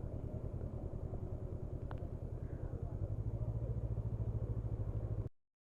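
Motorcycle engine running with a fast, even pulsing beat, a little louder from about three seconds in; the sound cuts off abruptly near the end.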